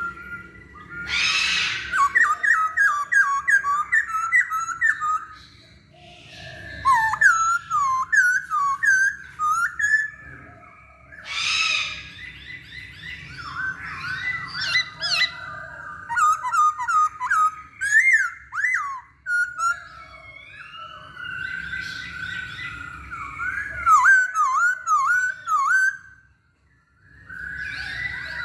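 Black-throated laughingthrush (poksay hongkong) singing in loud bouts of quick, varied whistled notes that slide up and down, with thin high chirps above them and short pauses between phrases.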